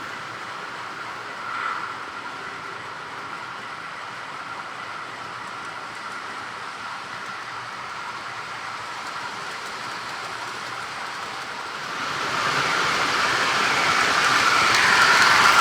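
Model train locomotive running on the track: a steady electric motor whine over rolling rail noise, growing louder about three-quarters of the way through.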